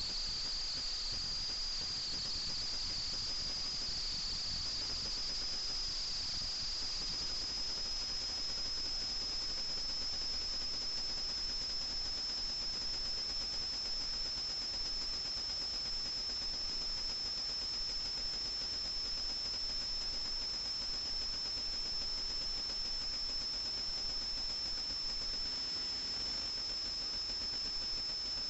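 FPV quadcopter's motors running at a steady cruise, a high whine over hiss that drifts up slightly in pitch in the first few seconds and then holds level.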